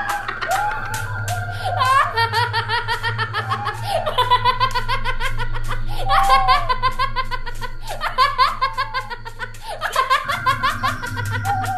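Repeated bursts of laughter over background music with a steady low beat; the music changes about ten seconds in.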